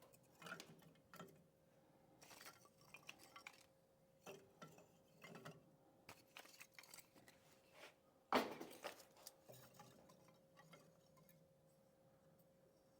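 Faint, scattered clicks and knocks of small dry split kindling sticks being laid on top of the firewood, with one sharper knock about eight seconds in.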